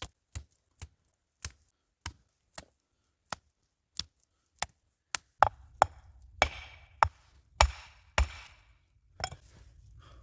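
Wood being chopped: a string of sharp, separate strikes, roughly two a second and unevenly spaced, with the blows getting louder past the middle. A steady low rumble comes in under them at about the same point.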